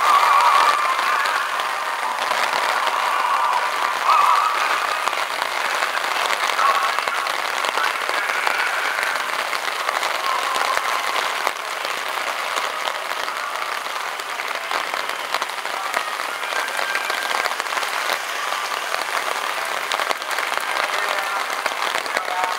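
Heavy rain falling steadily on surfaces, an even hiss that does not let up.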